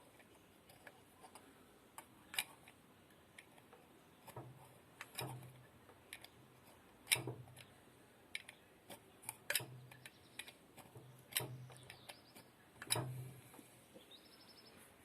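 Irregular sharp clicks and light knocks of small blender parts and tools being handled during disassembly, about a dozen of them, the loudest about seven seconds in.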